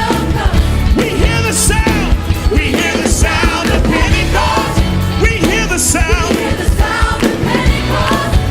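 Live gospel worship music from a church choir and band: drums and bass with a singing voice over them.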